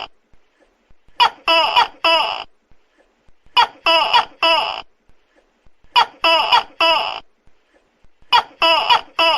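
Tokay gecko calling, very loud: groups of three pitched calls, a new group about every two and a half seconds, four groups in all.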